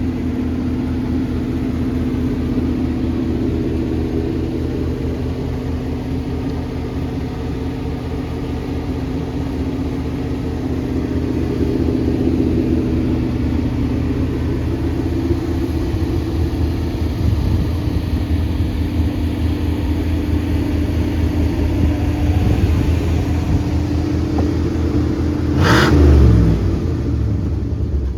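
Car engine and exhaust running while driving, a steady low drone, with a brief louder swell near the end.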